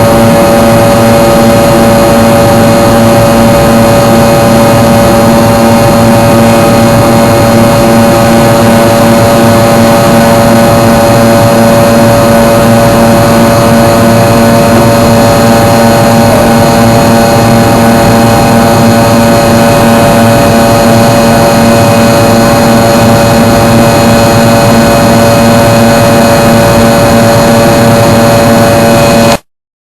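Cabin noise inside a Fokker 100 climbing out: the steady run of its rear-mounted Rolls-Royce Tay turbofans, with several steady whining tones over a loud rush of air. It cuts off suddenly near the end.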